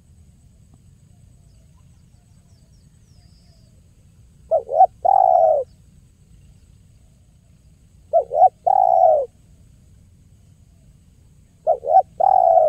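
Spotted dove (tekukur) cooing: three song phrases about three and a half seconds apart, each two short coos followed by a longer drawn-out coo.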